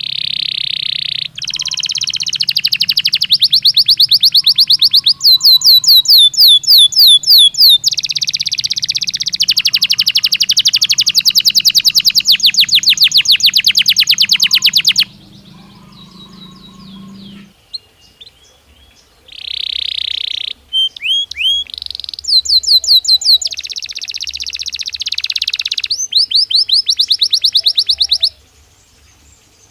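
Belgian canary singing: long phrases of rapid trills and repeated chirps, with a pause in the song about halfway through before it starts again in shorter bursts.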